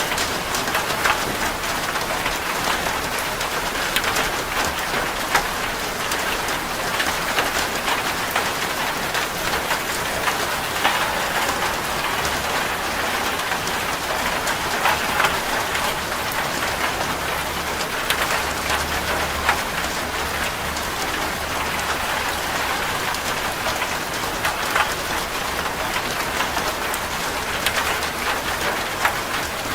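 Steady rain drumming on a corrugated zinc roof, a dense even patter with individual drops clicking sharply on the metal.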